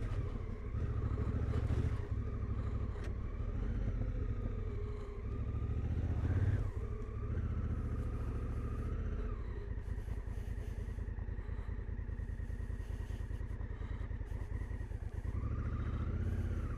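Adventure motorcycle engine running at low road speed, its pitch rising and falling as the throttle is worked on a slippery clay track.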